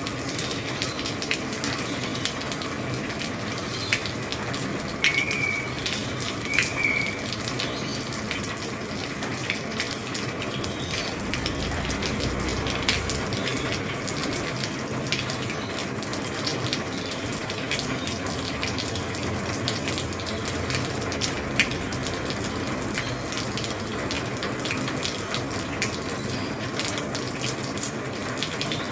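Heavy rain falling on an old roof: a steady hiss, with many sharp taps and clicks of drops striking. Two brief high chirps come about five and seven seconds in.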